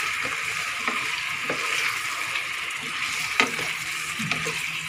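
Chicken pieces frying and sizzling steadily in a pot while being stirred with a plastic spatula. The spatula knocks against the pot a few times, sharpest about three and a half seconds in.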